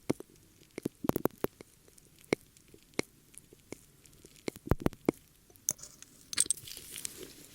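ASMR ear-cleaning sounds close to the microphone: irregular sharp crackles and clicks, some in quick clusters, and from about six seconds in a softer, longer brushing and rubbing hiss.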